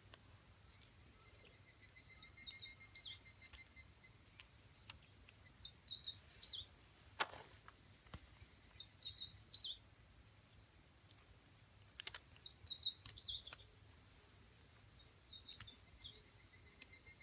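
A bird singing the same short phrase of quick high chirps over and over, about every three seconds, over low steady outdoor background noise. A few sharp snaps from chili stems being picked off the plant come in between, one about seven seconds in and a couple near thirteen seconds.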